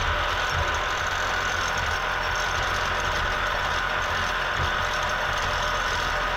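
A workshop machine tool running steadily: an electric motor's low hum under an even hiss, with no change in speed.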